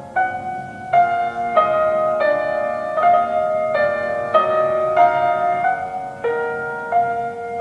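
Solo piano music played slowly and gently, one note after another about every half second.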